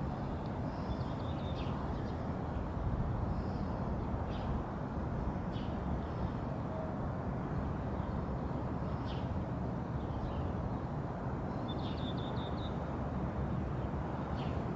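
Outdoor ambience: a steady low rumble with small birds chirping now and then, including a quick run of chirps near the end.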